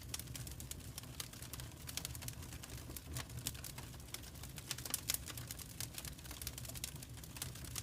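Wood fire crackling, with frequent irregular sharp pops and snaps over a low, steady rumble of burning.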